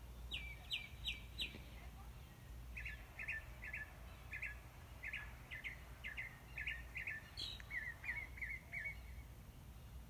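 Small bird chirping faintly: four quick falling notes at the start, then a series of short chirps about two a second, and a quicker run of five chirps near the end, over a steady low hum.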